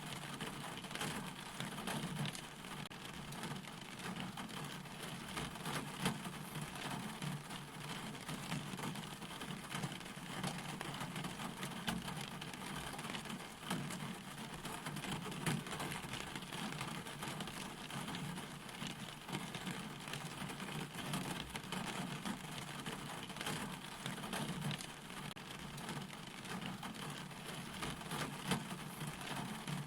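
Steady rain falling on a surface, with a dense patter of drops and a few louder single drops now and then.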